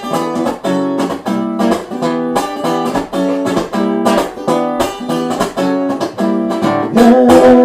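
Acoustic guitar strummed in a steady, even rhythm through an instrumental passage of a song, the chords changing every second or so.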